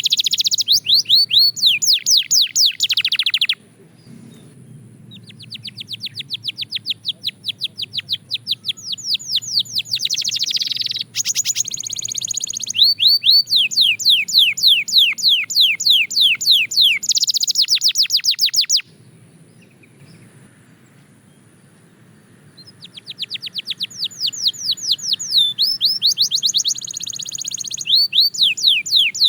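Belgian canary singing: long, fast trills of rapidly repeated falling notes, with two breaks of a few seconds in the song, about four seconds in and again around twenty seconds in.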